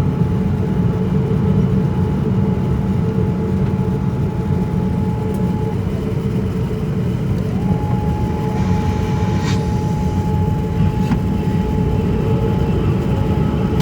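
Steady cabin roar of a Boeing 787-9 airliner in flight, engine and airflow noise heard from inside the cabin. A thin steady whine rides on it, drops away about six seconds in, and returns a couple of seconds later; two faint clicks come near the middle.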